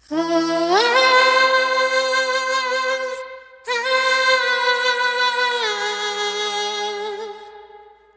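Wordless a cappella singing in long held notes. The pitch slides up about a second in and holds, breaks off briefly near the three-second mark, comes back on the same note, steps down about two seconds later and fades out near the end.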